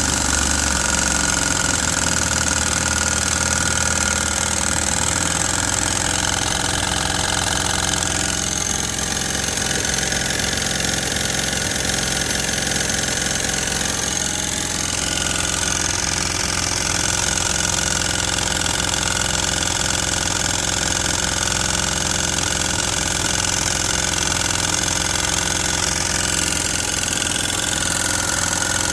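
Stuart model steam boiler feed pump running steadily on steam on its first steam run.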